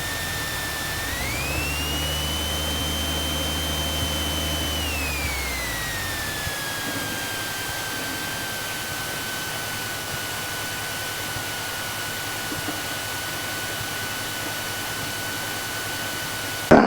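Light aircraft engine and propeller droning steadily in the cockpit. About a second in the pitch rises as power is added, holds for about four seconds, then slides down to a lower, steady setting as power is reduced. A sharp click comes at the very end.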